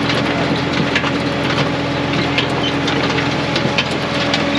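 Brute Force USA 18-24HD diesel firewood processor running steadily, with frequent irregular knocks and clatter of split firewood tumbling through the machine.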